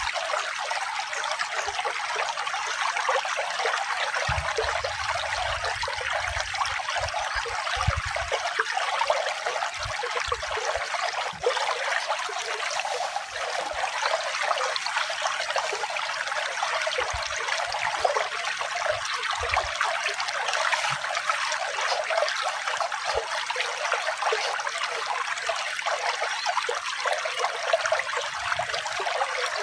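Running water trickling and splashing steadily, like a small stream, with no music over it.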